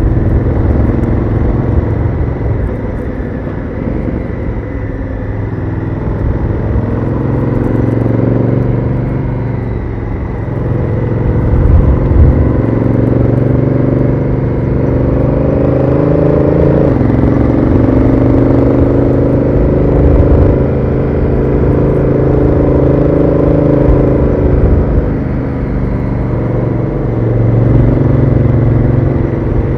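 Honda Africa Twin CRF1000L's 998 cc parallel-twin engine through its stock exhaust, pulling through the gears. The engine note rises and falls several times, with a sharp drop about seventeen seconds in as the DCT gearbox changes up, over a steady low rumble of wind and road.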